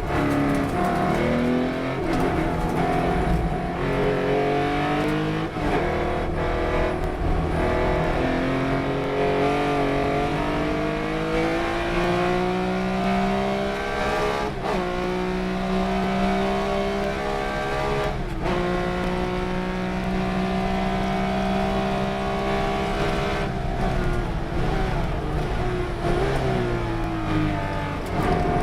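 Race car engine under hard acceleration, its pitch climbing steadily for over ten seconds, with two brief breaks for gear changes, then holding high before the driver lifts off about three quarters of the way through and it drops away with uneven blips of revs as it slows for a corner.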